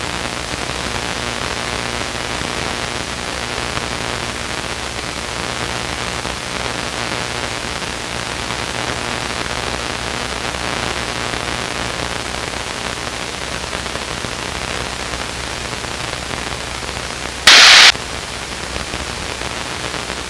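Steady static hiss over the low, even drone of a Luscombe light aircraft's engine, heard through the aircraft's intercom and radio feed. About three-quarters of the way through there is one brief, very loud burst of static, like a radio transmission clicking on.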